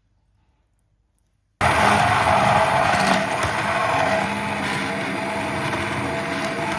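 A motorized kitchen appliance switches on abruptly about a second and a half in and runs steadily, a loud rushing noise over a low hum.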